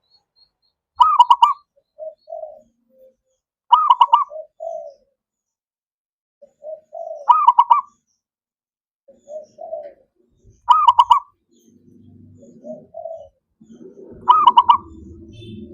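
Zebra dove (perkutut) cooing: a loud phrase of quick, high coos repeats about every three and a half seconds, five times, with softer, lower coos between the phrases. A faint low rumbling noise comes in over the last few seconds.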